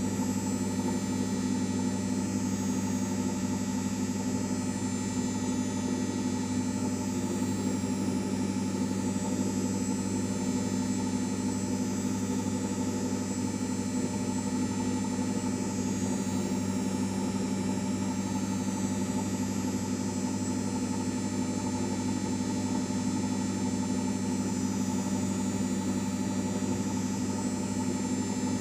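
LG 5 kg washing machine running, a steady hum with a constant whine above it that does not change.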